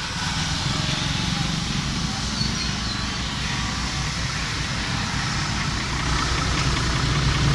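Mazda truck's diesel engine running steadily with a low, even hum.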